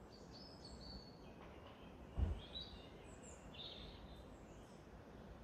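Faint outdoor ambience with small birds chirping and whistling now and then in short high calls. A brief low thump comes about two seconds in.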